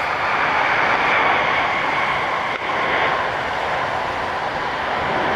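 Jet engines of a Boeing 787 arriving to land: a steady loud roar with a faint whine slowly falling in pitch.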